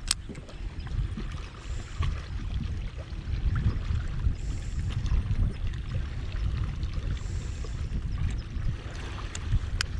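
Wind rumbling on the microphone with water lapping against a kayak hull, and a couple of sharp knocks, one at the start and one near the end.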